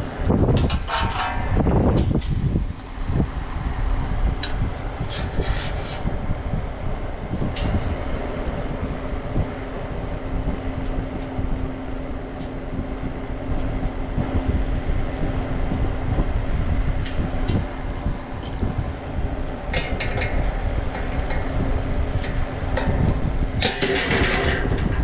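Steady low mechanical rumble with a hum that comes in partway through, broken by scattered clicks and rattles of tools and parts being handled.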